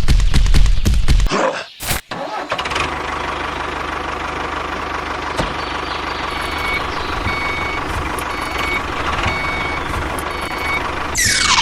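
A small motor or engine of a miniature machine running: fast rhythmic knocking for about the first second, then, after a brief break, a steady running noise with short evenly spaced beeps in its middle part. A falling whoosh comes just before the end.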